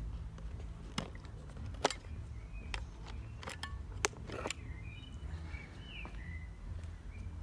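Small birds chirping a few times over a low steady rumble, with several sharp clicks and taps in the first half.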